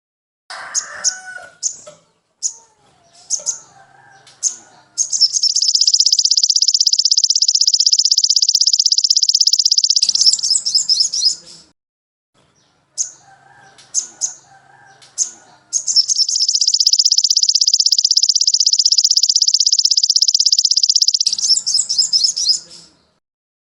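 Songbird song from a masteran training recording: scattered short high chirps broken by two long, very rapid high-pitched trills, each lasting about five seconds.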